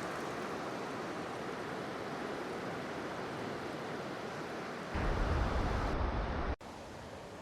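Steady wash of sea surf and wind on an open beach. About five seconds in, a louder low rumble of wind buffeting the microphone sets in and stops abruptly a second and a half later, leaving a quieter background.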